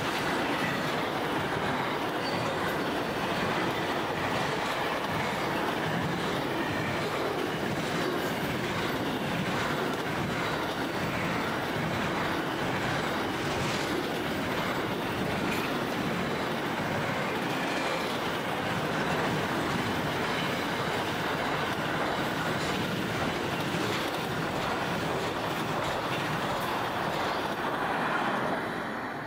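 Long intermodal freight train of container wagons rolling past: steady rolling noise of steel wheels on rail with scattered short clicks, dropping away near the end as the last wagon passes.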